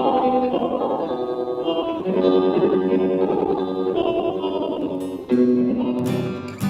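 Instrumental guitar break in a 1960s pop ballad, with no singing: an effects-laden electric guitar plays slow picked notes. Strummed chords come in about five seconds in and again near the end.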